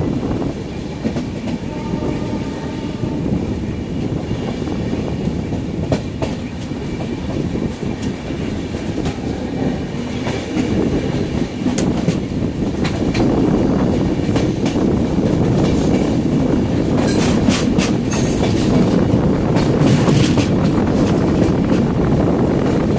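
Train running along the track: a steady rumble with the click of wheels over rail joints, the clicks coming thicker in a run about three quarters of the way through.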